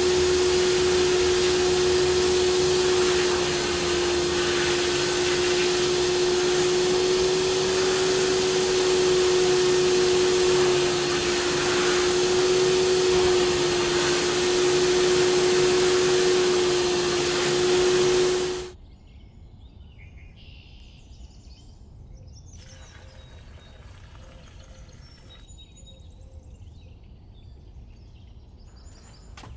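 Vacuum cleaner running steadily with a strong hum, switched off about two-thirds of the way through; after that only faint background sounds remain.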